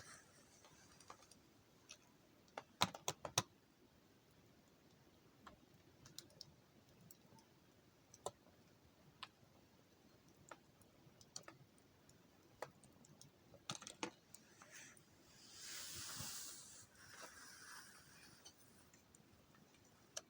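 Faint wood fire crackling, with scattered sharp pops and a louder cluster of pops about three seconds in. A brief hiss rises and fades about two-thirds of the way through.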